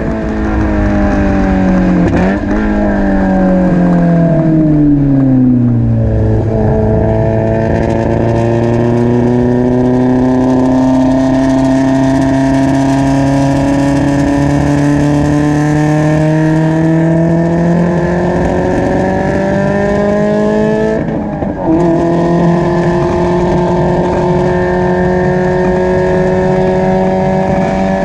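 Spec Miata's four-cylinder engine heard from just above the exhaust on track. The revs fall for about six seconds with a quick blip about two seconds in, then climb slowly and steadily under load, break off briefly a little past twenty seconds, and climb again. The owner reports the engine as misfiring and well down on power.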